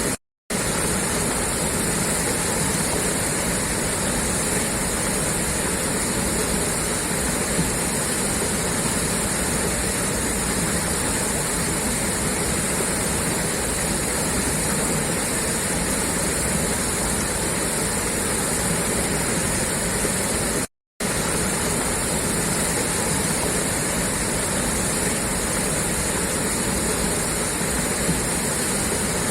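Water gushing steadily out of a pipe outlet, a constant rushing sound. It cuts to silence for a moment twice, just after the start and about 21 seconds in.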